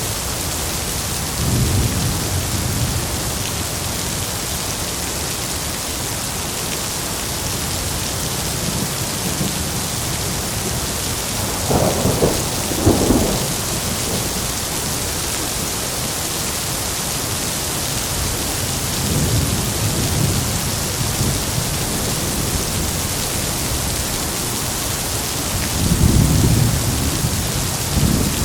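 Heavy rain falling steadily, with thunder rumbling several times: a rumble about two seconds in, two sharper claps close together near the middle, another rumble later, and the loudest rumble near the end.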